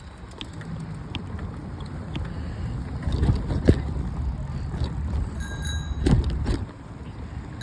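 Bicycle riding along, with a steady low rumble of tyres and wind on a handlebar-mounted phone, scattered knocks and rattles from the bike over bumps, and a faint bicycle bell ring near the end.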